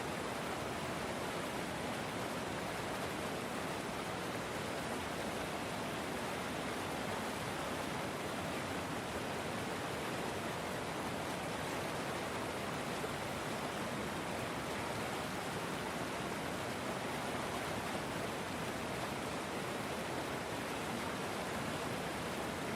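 River water flowing, a steady even rush with no changes.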